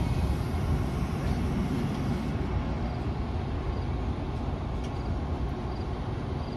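Metra bilevel commuter train rolling slowly to a stop at the station: a steady low rumble, with its higher noise fading about two seconds in.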